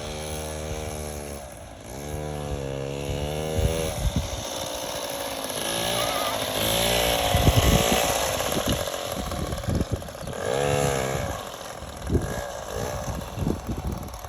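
Moped's small two-stroke engine running and revving up and down several times, with a few low thumps along the way.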